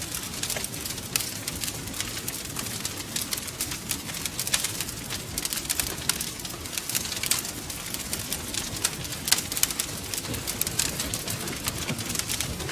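Wood fire crackling and popping steadily, with a soft low rumble of the flames underneath.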